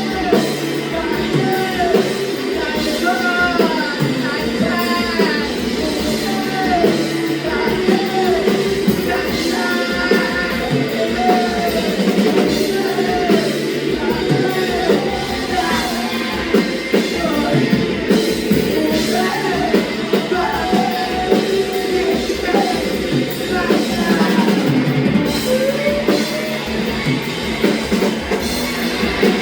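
Rock song with a drum kit, guitar and a singing voice.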